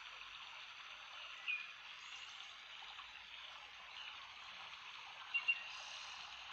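Steady hiss of babbling running water, with a few short high chirps over it: one about a second and a half in, and two quick ones near the end.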